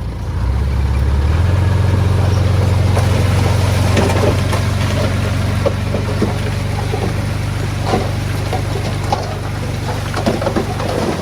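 Heavy diesel engine revving up in two steps in the first second or so, then running steady under load, with scattered knocks and clatter over it.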